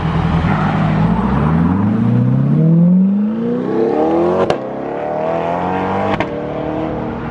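Chevrolet C8 Corvette's V8 accelerating hard through the gears, its pitch climbing steeply. Two quick upshifts come about halfway through and again about two seconds later, each marked by a brief sharp pop, and then the engine settles to a steadier tone.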